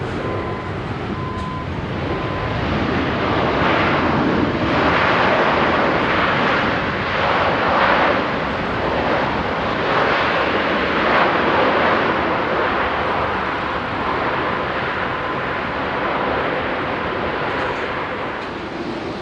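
Jet airliner engines passing: a loud rushing noise that builds over the first few seconds, is loudest around the middle and slowly eases off, with a thin steady whine running alongside at times.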